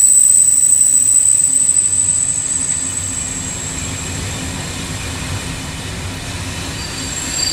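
Steady mechanical noise with a low rumble, overlaid by high, thin squealing tones that fade out about three seconds in; the whole sound slowly gets quieter.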